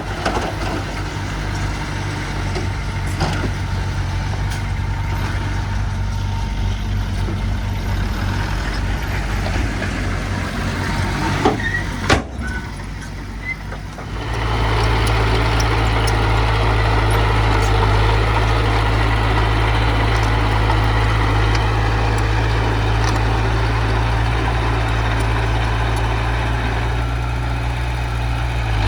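Heavy diesel engine of earth-moving machinery running steadily, with one sharp knock about twelve seconds in; the engine note grows louder from about fourteen seconds on and holds there.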